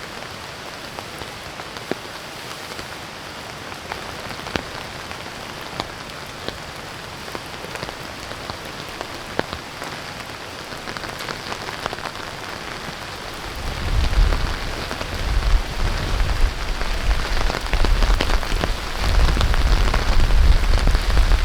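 Steady rain falling, an even hiss dotted with sharp ticks of individual drops. About two-thirds of the way in, gusts of wind start buffeting the microphone with a low, uneven rumble, and the sound gets louder.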